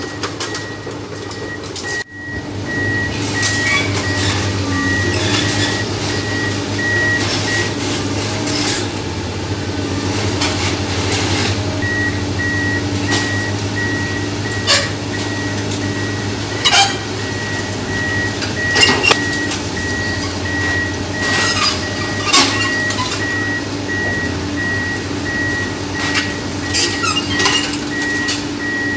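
A heavy machine's diesel engine running steadily while its back-up alarm beeps over and over, with irregular metallic clanks and knocks from the work.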